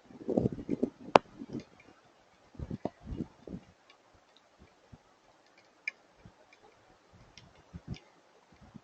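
Scattered hailstones striking nearby surfaces: irregular sharp ticks and duller thuds, with one sharp crack about a second in, and the hits thin out after the first few seconds.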